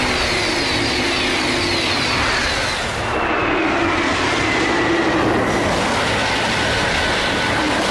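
High-speed bullet train rushing past: a steady, loud rush of noise with a whine that falls in pitch partway through.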